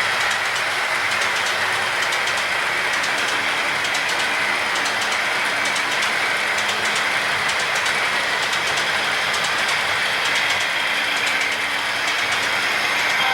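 Model train running along the layout's track: a steady rolling noise of wheels on rail with faint, quick, regular clicks.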